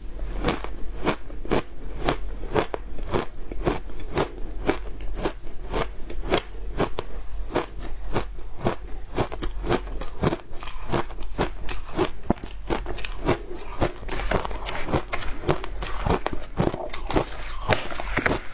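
Frozen matcha ice being bitten and chewed: a steady run of sharp crunches and crackles, about three a second.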